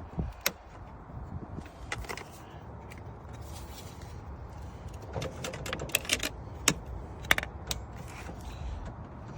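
Sharp metallic clicks and rattles of a jump starter's clamps and leads being handled and fitted onto battery terminals, loudest in a cluster past the middle, over a steady low rumble.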